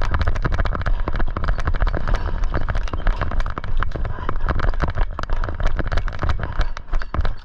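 A person running hard, with quick footfalls and gear rattling in a dense stream of knocks over a steady low rumble on the microphone.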